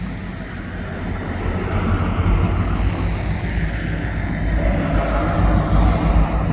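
Diesel freight locomotive engines running as a train moves past, a steady low rumble with wind noise on the microphone.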